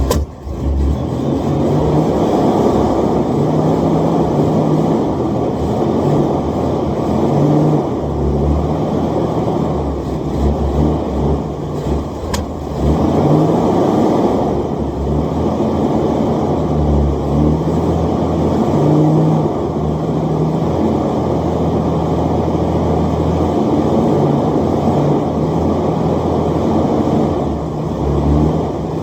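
1984 Buick LeSabre's 3.8 V6 idling steadily just after a cold start, its first run in a month or two. The level swells and dips a little.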